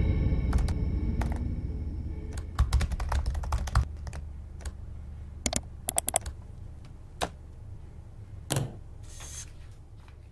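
Typing on a computer keyboard: keys clicking in short, uneven bursts, then a few single clicks later on. A low rumble fades away under it over the first few seconds.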